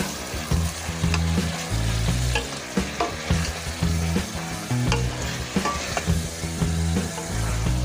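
Chicken pieces sizzling in a stainless-steel pot as a wooden spoon stirs and turns them, with a few sharp clicks where the spoon strikes the pot.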